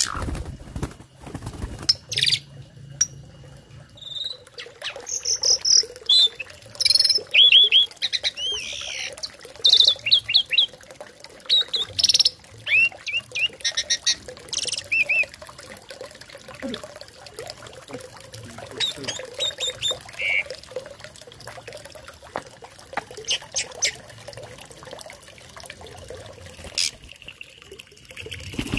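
Tame jalak starling singing in bursts of sharp chirps, whistled rising and falling notes and squawks, busiest in the first half and sparser later, with a faint steady hum underneath.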